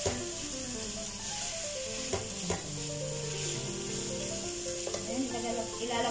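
Chicken, onion and carrot sizzling as they are stir-fried in a nonstick pot, with a spatula stirring and knocking against the pot a few times.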